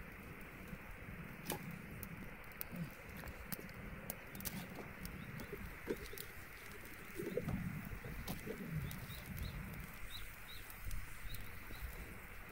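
Birds calling: a low cooing about halfway through, then a run of short high chirps near the end, over scattered sharp clicks.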